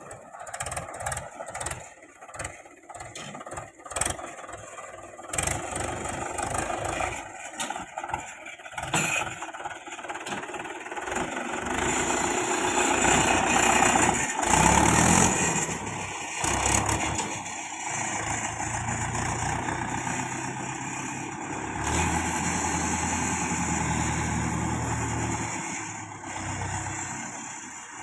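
Diesel engine of a JCB 3DX backhoe loader working under load, with a run of knocks and clatter in the first ten seconds or so. It then runs steadily with a low drone and a loud surge about halfway through.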